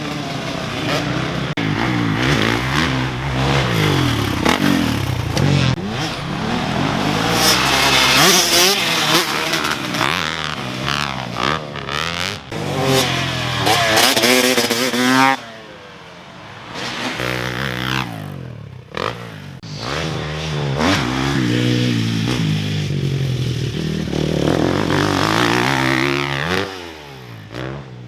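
Dirt bike engine revving hard, its pitch repeatedly climbing and dropping as it is throttled and shifted. The throttle is chopped briefly a few times around the middle and near the end.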